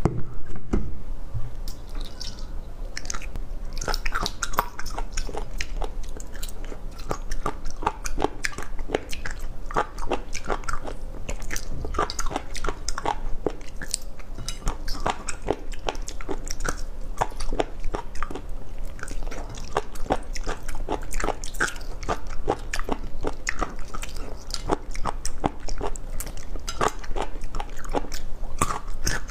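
A person biting and chewing crunchy food close to a clip-on microphone, a steady run of sharp crunches throughout.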